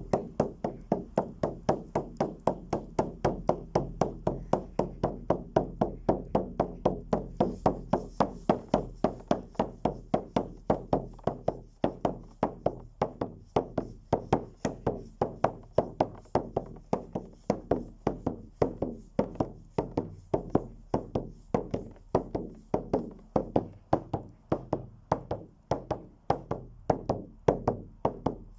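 Steady rhythmic beating, about three even strikes a second, each with a short low ring.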